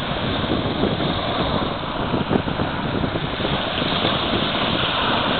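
Black Sea waves breaking and washing on the shore, with wind buffeting the microphone.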